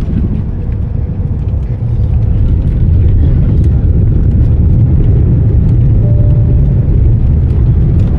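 Deep, steady rumble of an airliner landing, heard from inside the cabin; it grows louder about two seconds in and then holds.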